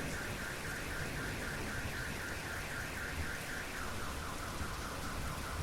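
Steady rain with a car alarm sounding through it: a rapidly pulsing warble, about four pulses a second, that switches to a lower-pitched pattern about two-thirds of the way through.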